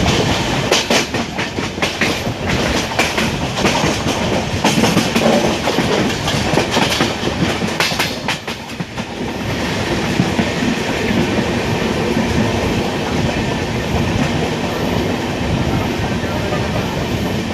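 Passenger train rolling along, the wheels clicking over the rail joints, with the clicks thinning into a steadier rumble about halfway through.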